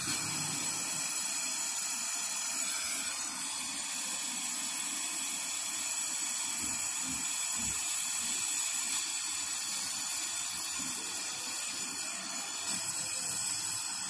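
Gas brazing torch flame hissing steadily while a joint on a refrigerator's refrigerant tubing is brazed closed.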